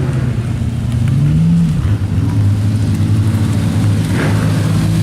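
Lamborghini Gallardo LP 560-4 Spyder's V10 exhaust note while driving, loud and steady. The pitch rises a little, drops back about two seconds in, then holds steady.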